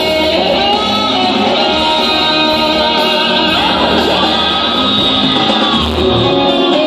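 Rock instrumental led by an electric guitar playing a melody, its notes bending and gliding up and down, over a steady bass underneath.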